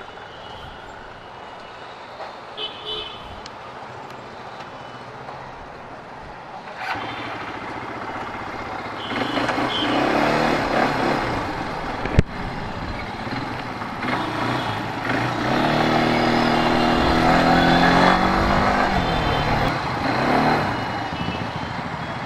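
Polaris ATV engine running on the road, getting louder about halfway through and rising in pitch twice as it accelerates. Short high beeps sound now and then, and there is a sharp click about twelve seconds in.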